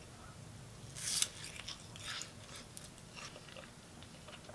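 A person biting into and chewing a soft homemade sweet potato, coconut and tuna treat topped with melted brie and apple: one louder bite about a second in, then faint chewing.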